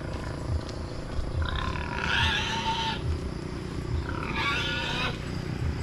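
A farm animal calls twice: a call of about a second and a half, then a shorter one, both over a steady low rumble.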